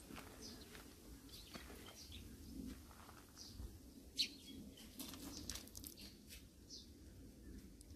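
Small birds chirping on and off, faint, over a steady low hum. A sharp click about halfway through, followed by a few lighter clicks.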